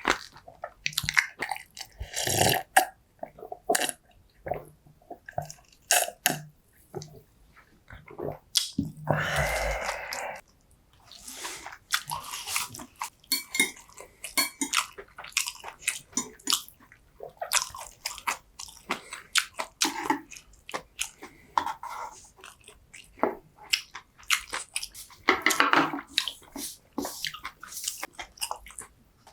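Close-miked eating of jokbal and bibim-myeon: steady wet chewing, bites and mouth smacks, with two longer sounds lasting about a second each, about nine and twenty-five seconds in.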